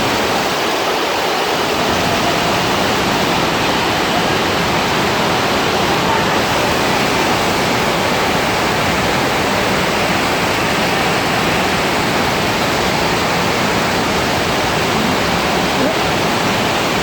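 Steady, loud rush of falling and splashing water, the constant water noise of a water park.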